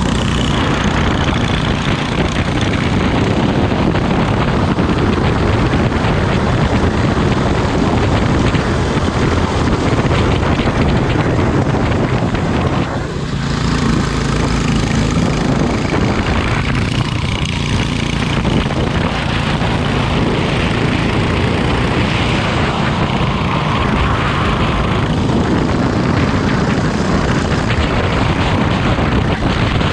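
Kart engine running hard at racing speed, its note rising and falling, with a brief drop in level about thirteen seconds in.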